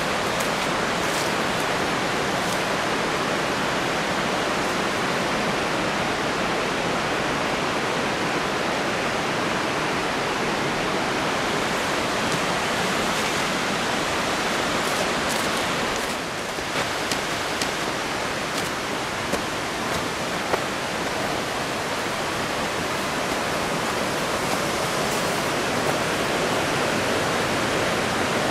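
Steady rush of falling water from a mountain stream and waterfall. A few faint ticks come about halfway through.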